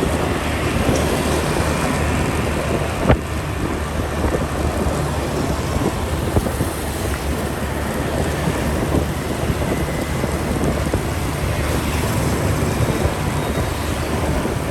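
Motorcycle riding, heard from on board: a steady engine note under heavy wind rush on the microphone, with one sharp click about three seconds in.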